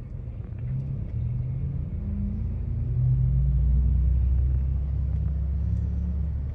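Low, steady engine hum and rumble of a car running, its pitch drifting slightly and getting louder about three seconds in.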